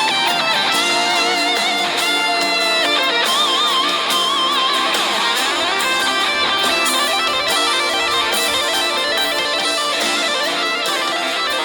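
Rock music with electric guitar: a lead guitar line with bent, wavering high notes over strummed chords, without vocals.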